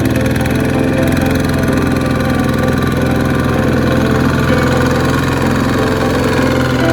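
Small tractor engine running steadily at an even speed.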